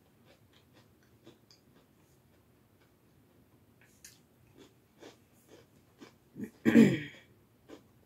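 A person chewing a crisp cocoa cashew crème sandwich cookie, with faint crunching clicks. About seven seconds in comes one brief, loud vocal sound from the eater.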